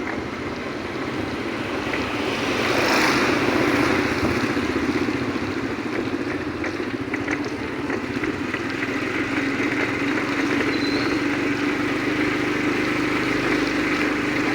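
Motorcycle engine running steadily while riding, with wind and road noise over it; the noise swells for a couple of seconds about two seconds in.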